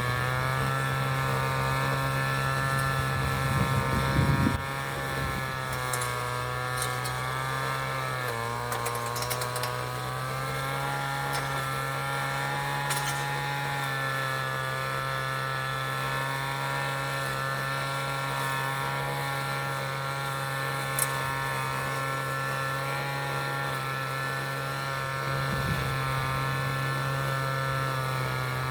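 City street traffic, with a vehicle engine running close by at a steady, unchanging pitch. A louder rumble rises briefly about four seconds in.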